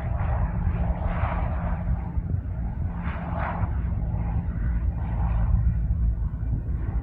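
Cessna 172P single-engine plane with its Lycoming O-320 four-cylinder engine, running at low power as it comes in to land. Its sound swells and fades several times over a steady low rumble.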